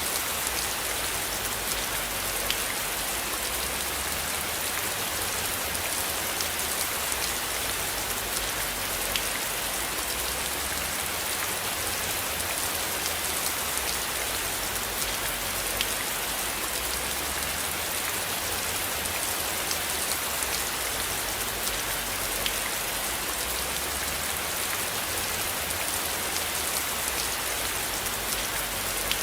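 Steady rain falling: an even hiss with scattered drop ticks and a low rumble underneath.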